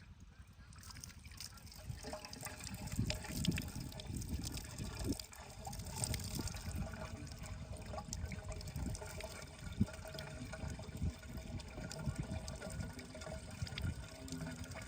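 Water splashing and trickling steadily, building up about a second in.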